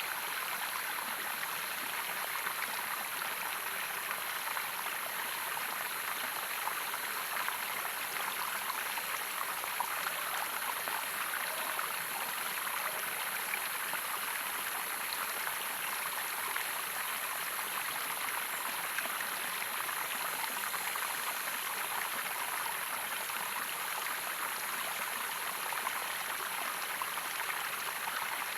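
Running water of a stream flowing steadily: an even, unbroken rush with no changes.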